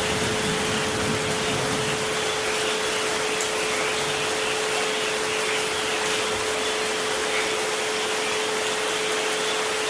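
Steady rain noise with a continuous pure tone held under it, the 432 Hz relaxation frequency, plus a fainter tone just above it.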